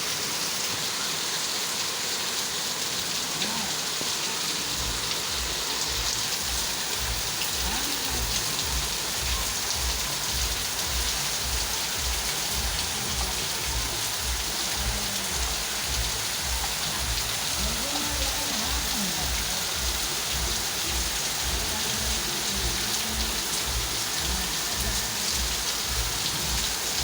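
Steady rain falling, an even hiss. About five seconds in, a low regular pulsing starts beneath the rain and keeps going.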